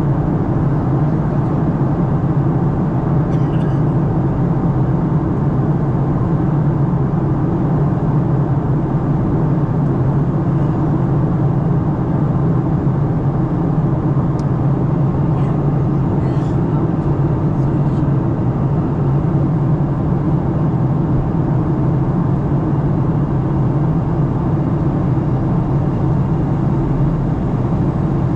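Steady cabin drone of a Boeing 737-900 in flight, heard from a window seat: engine and airflow noise with a strong low hum.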